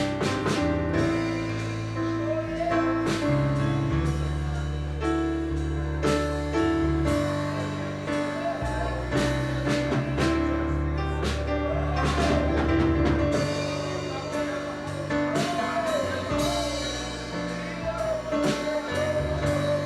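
Live church band playing slow worship music with keyboard chords and drums, with a voice singing over it at times.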